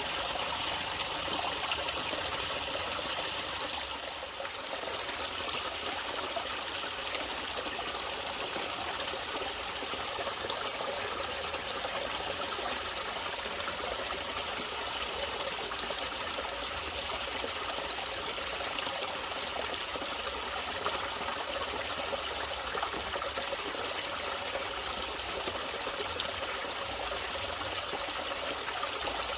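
Natural running water, a stream trickling and splashing steadily, with a brief dip in loudness about four seconds in.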